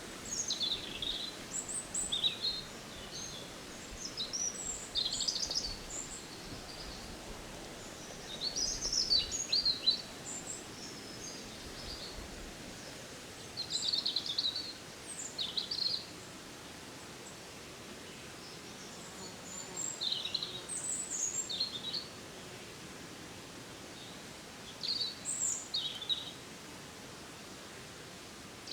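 Birdsong: short high chirping phrases repeated every few seconds, with pauses between them, over a faint steady background hiss.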